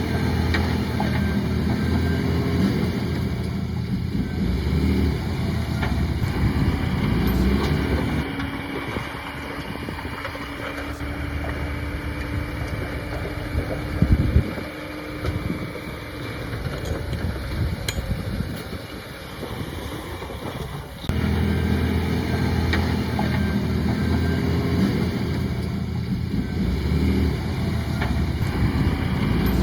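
Heavy diesel engine of earthmoving machinery running under load, a deep steady drone. It eases off for a stretch and comes back abruptly louder about two-thirds of the way through, with a heavy thump near the middle.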